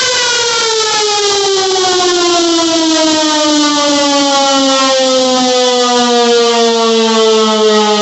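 Model 5 outdoor warning siren sounding at close range, running at full power. Its loud, steady wail falls steadily in pitch and levels off near the end.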